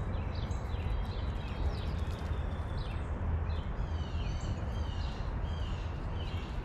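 Small songbirds chirping over and over, with short falling and warbled notes from more than one bird, over a steady low rumble.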